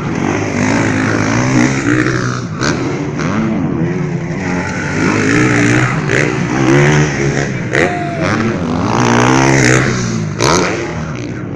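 Motocross bike engines revving, their pitch rising and falling repeatedly, with a few short sharp cracks along the way.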